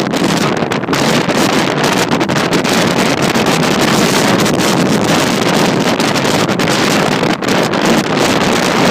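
Strong wind blowing, a loud, steady rushing noise that flutters rapidly without letting up.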